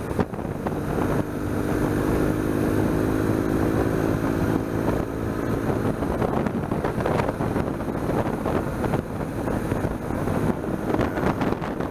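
BMW R1200GS boxer-twin engine running at a steady road speed, with wind noise on the microphone.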